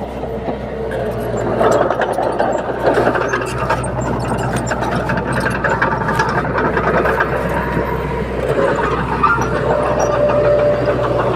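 Crawler bulldozer's diesel engine running steadily under load, with a rapid metallic clatter and squeal from its steel tracks.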